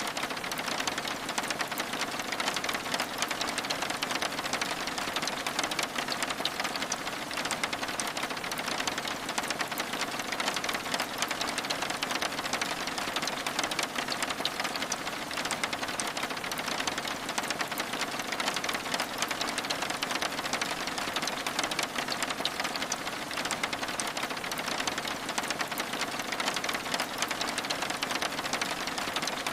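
Steady rain with a dense, even stream of fine ticks from drops striking a window pane.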